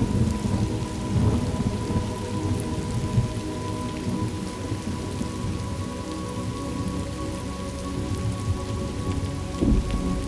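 Thunderstorm: steady rain with low rolling thunder, the rumble strongest in the first couple of seconds and swelling again briefly near the end.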